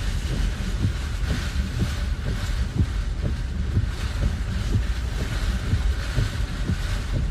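Strong storm wind buffeting the microphone in heavy gusting rumbles, with a steady hiss of wind-driven noise behind it.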